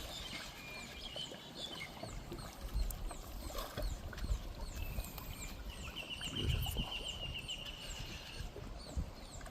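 Birds chirping with many short, high, falling calls, and one rapid trill lasting a couple of seconds about six seconds in, over a low rumble.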